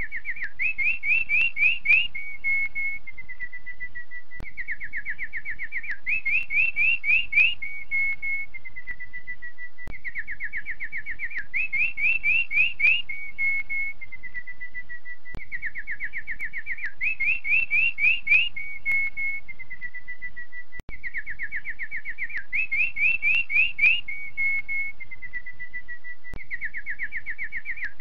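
Canary singing: a fast trill, a few rising notes and a held whistle, the same phrase repeated about every five and a half seconds.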